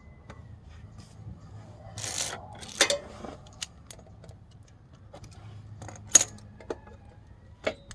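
Small metal engine parts and hand tools clinking and clattering as they are handled during a timing-chain teardown: a short scrape about two seconds in, then scattered sharp clicks, the loudest about six seconds in.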